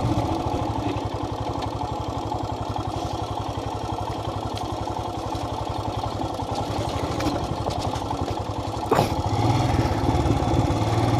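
Motorcycle engine running at low revs while riding slowly, its firing pulses steady and evenly spaced. About nine seconds in there is a short sharp click, after which the engine note changes to a steadier hum.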